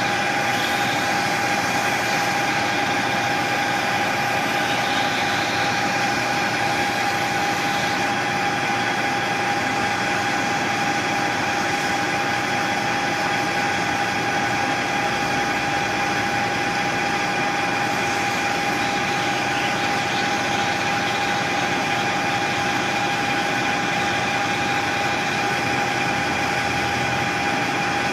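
Machine tool running steadily during the machining of a shift knob: a constant whine over a dense, even hiss, with no pauses or changes.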